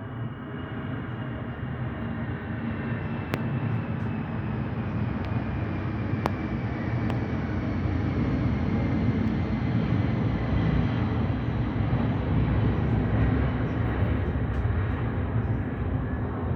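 Boeing 757-200 jet airliner climbing out after takeoff. Its steady engine roar grows slowly louder, and a faint high whine glides down in pitch as it passes.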